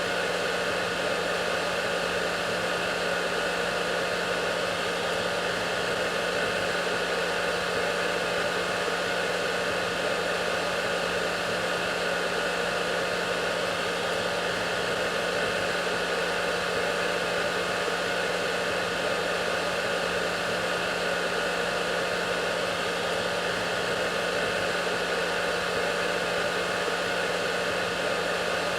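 Hair dryer running steadily: a constant rush of air over a low motor hum.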